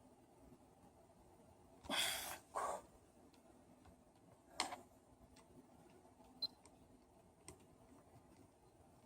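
Quiet handling noises from working on a power tool: two short scraping rustles about two seconds in, then a sharp click and a few faint ticks.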